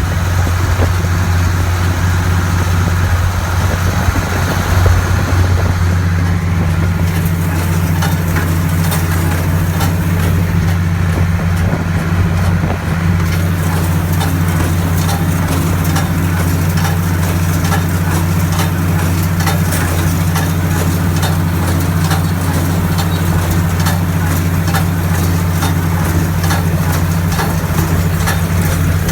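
Farm tractor engine running steadily while pulling a hay baler. From about seven seconds in, frequent clicks and knocks from the baler run over the engine drone.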